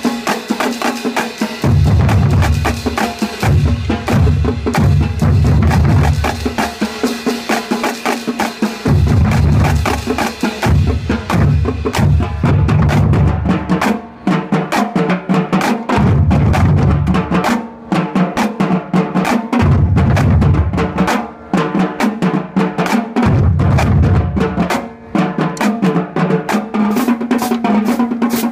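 High school drumline playing: rapid snare drum strokes and rolls over bass drums that come in in stretches of a second or two.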